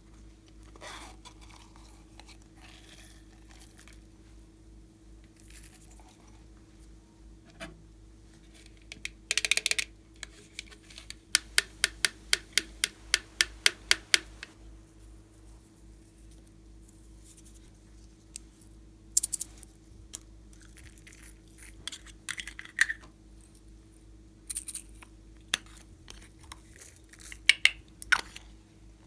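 Slime being pressed and worked by hand, giving sharp clicks and pops: a quick cluster, then a run of about five clicks a second for three seconds, then scattered clicks, over a steady low hum.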